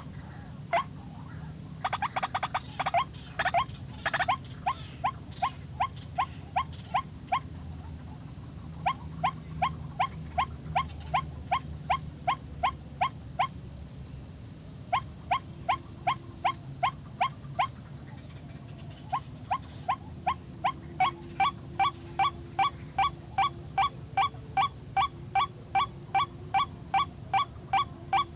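White-breasted waterhen calling: a long run of short, upward-rising 'kwak' notes, about two a second, broken by a few brief pauses.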